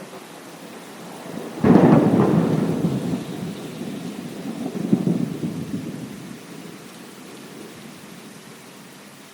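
Steady rain with a thunderclap: a sudden loud crack under two seconds in, then a second swell about three seconds later, rumbling away into the rain.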